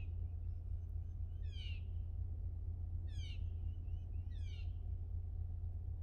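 A bird calling: a short falling call, repeated about every second and a half, over a steady low rumble.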